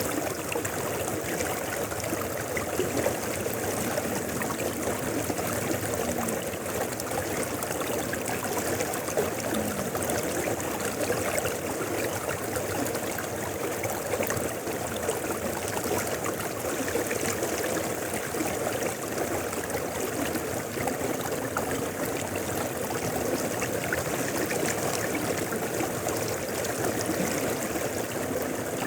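Mountain river flowing steadily: an even, unbroken rush of water with no pauses or surges.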